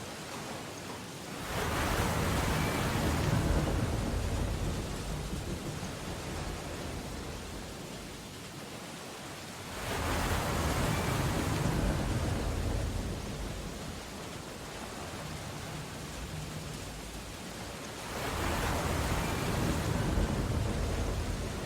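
Steady rain on window glass, with heavy ocean waves surging in three times, about eight seconds apart. Each wave builds quickly to a deep rumble and then washes away over several seconds.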